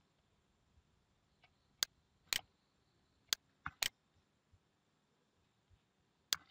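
Computer mouse clicking: about six short, sharp clicks spread over a few seconds, two of them in quick succession like a double-click, over faint background hiss.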